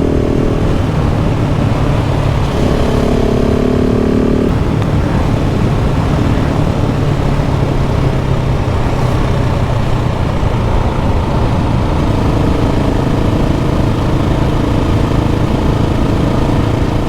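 KTM 690 SMC R's single-cylinder engine running at a steady, even pitch under way, loud and constant, with a rush of noise over it. About two and a half seconds in, a higher pitched drone joins briefly for about two seconds.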